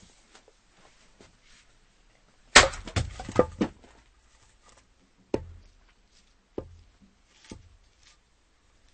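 An axe chopping firewood: one loud strike about two and a half seconds in, followed by about a second of clattering wooden knocks, then three more single sharp wooden knocks spaced a second or so apart.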